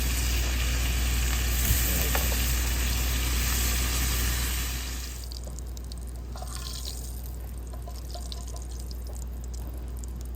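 Bacon and eggs frying in a pan, sizzling over a steady low hum. The hiss drops in level about five seconds in, leaving scattered crackling spatters.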